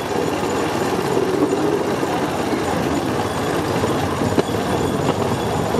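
Bamboo train running on its rails: a steady rolling noise from the platform and wheels on the track, with a sharp click about four seconds in.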